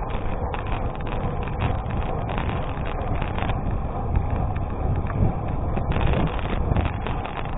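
Bicycle tyres rolling over a gravel road, with a dense, irregular crackle of stones under the tyres and wind rumbling on the microphone.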